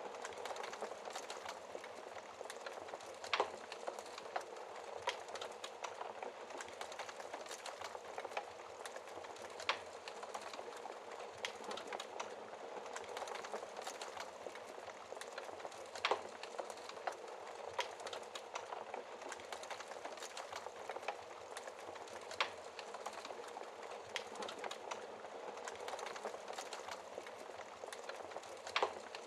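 Wood fire in a fireplace crackling steadily: a dense patter of small crackles, with a louder, sharper pop about every six seconds.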